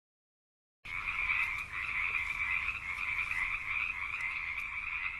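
A chorus of frogs calling continuously. It starts abruptly about a second in, after silence.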